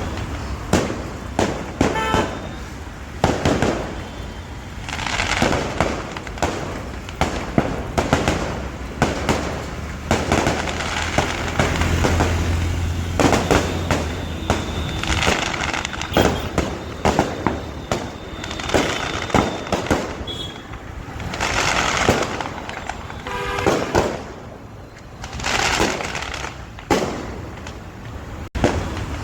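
Firecrackers and fireworks going off in a dense, continuous barrage of sharp cracks and bangs, with several longer hissing swells in between.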